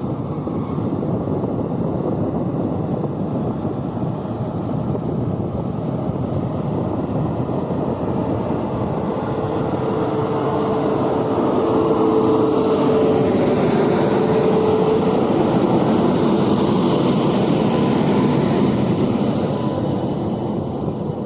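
WAP-7 electric locomotive and its passenger coaches pulling away from a station and passing close by, with a steady running noise of the locomotive and the wheels on the rails. It grows louder as the locomotive goes by about ten seconds in, when a steady tone rises above the noise for a few seconds, then continues as the coaches roll past.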